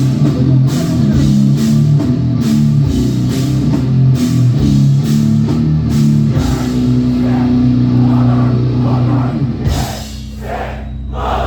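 Hardcore punk band playing live, with distorted guitars, bass and drums pounding out a steady beat, then about six seconds in holding one long ringing chord.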